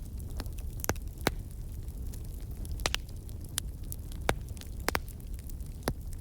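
Wood fire burning in a fireplace: a steady low rumble of the flames with irregular sharp crackles and pops of the burning logs, several a second apart.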